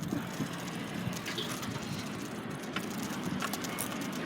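Bicycle being ridden: a steady rolling rumble of tyres on pavement, with a few light clicks and rattles from the bike.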